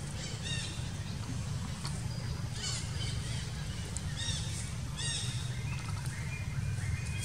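Birds calling: short, high, downward-sweeping chirps several times, with a few rising notes near the end, over a steady low outdoor rumble.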